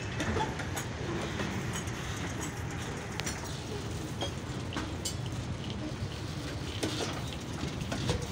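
Freight train's covered box wagons rolling past: a steady low rumble of wheels on rail with scattered short clicks and clanks.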